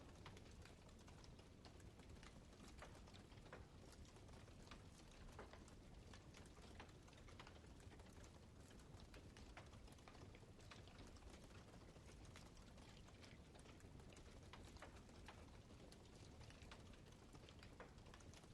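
Wood fire crackling quietly: a steady run of small irregular pops and snaps over a soft low rumble.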